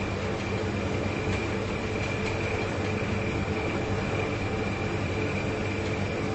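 Two large refrigerators running, their compressors giving a steady hum with a thin high whine above it.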